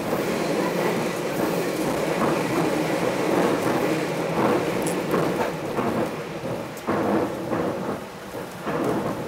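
Passenger train running at speed, heard from inside the carriage: a steady dense rumble of wheels and car body, with irregular clacks and knocks in the second half.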